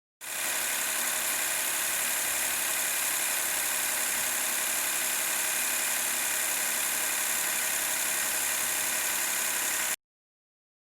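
Daihatsu Move's three-cylinder 660 cc engine idling, heard close up in the engine bay: a steady running sound, strongest in the high pitches, that starts a moment in and cuts off abruptly near the end.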